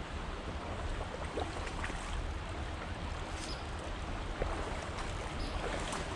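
Steady rushing of flowing river water, with a few faint short ticks scattered through it.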